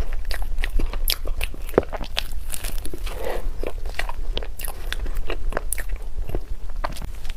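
A person biting and chewing food: many short irregular clicks of eating, over a steady low hum.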